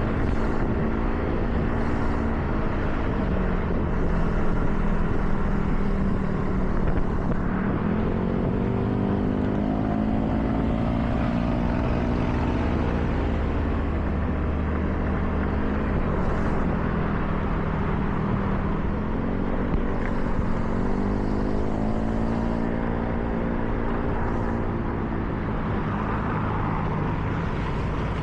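A car engine running under way, its pitch climbing twice as the car accelerates and then dropping back, over a steady hiss of tyres on a wet road.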